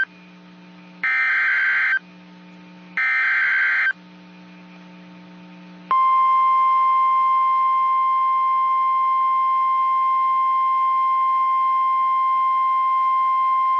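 NOAA Weather Radio emergency alert signal. Two one-second buzzy bursts of SAME digital header data come a second apart. About six seconds in, the steady single-pitch 1050 Hz Warning Alarm Tone starts and holds, signalling the broadcast of a severe thunderstorm warning.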